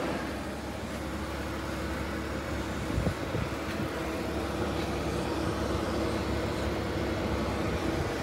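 2000 Porsche Boxster 2.7's flat-six engine idling steadily, with a steady hum over a low rumble. A single light knock about three seconds in.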